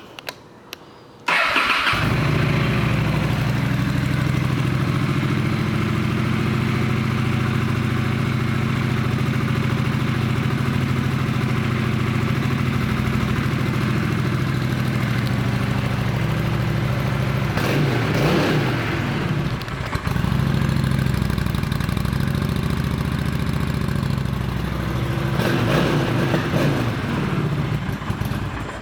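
2011 Honda Shadow Phantom 750's liquid-cooled V-twin engine starting about a second in, then idling steadily. It is revved briefly twice, once about two-thirds through and again near the end, before it stops.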